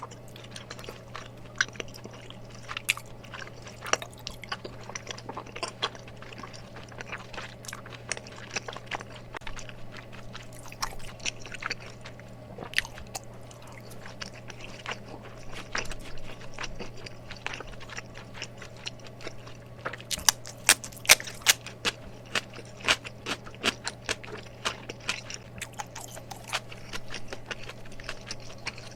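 Close-miked chewing of saucy mala tteokbokki: wet, sticky mouth sounds and many short smacks and clicks, busiest about two-thirds of the way through. A steady low hum runs underneath.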